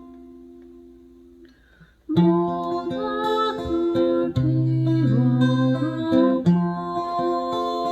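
Acoustic guitar: a chord rings and fades away over the first two seconds, then strummed chords start up again, with a voice singing over them.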